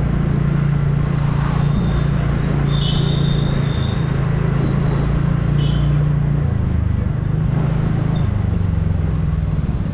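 TVS Ntorq 125 scooter's single-cylinder engine running steadily while riding through traffic, with a steady rush of road and wind noise. The engine note shifts about two-thirds of the way in, and a few brief high-pitched tones sound in the background.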